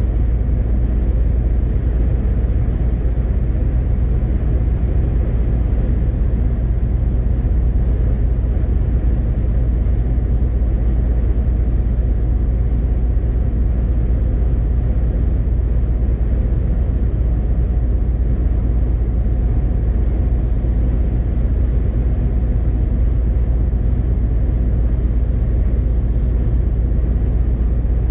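MAN TGX 18.520 truck on the move, its straight-six diesel running at a steady pace under a deep, even drone of engine and road noise.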